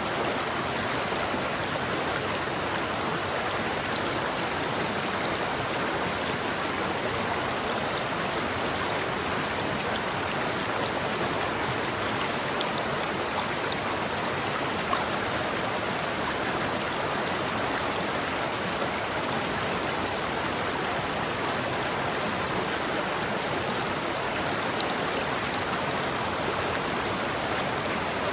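River water flowing steadily over rocks: a constant rushing with faint splashes and drips here and there.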